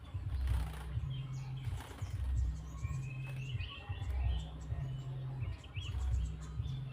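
Small birds chirping and trilling, high and faint, over a louder low rumble that swells and drops in blocks about a second long.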